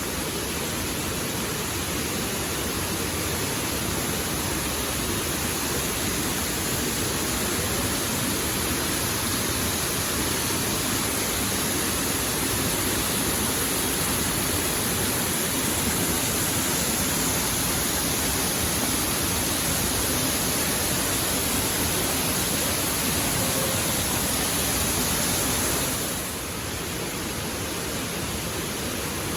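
Waterfall water falling and rushing in a steady, unbroken roar, dipping slightly in level near the end.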